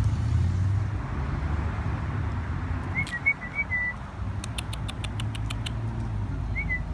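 A small bird giving a few short whistled chirps about three seconds in and once more near the end, over a steady low rumble. Between the chirps comes a quick run of about eight sharp clicks, lasting about a second and a half.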